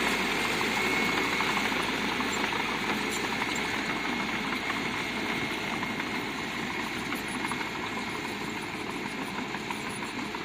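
Bulldozer's diesel engine running steadily, with a thin high whine over it for the first few seconds; the sound gradually gets quieter.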